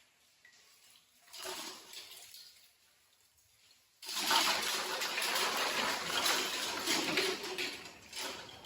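Water running from a tap. The flow starts suddenly about four seconds in and runs steadily, with a couple of shorter splashes before it.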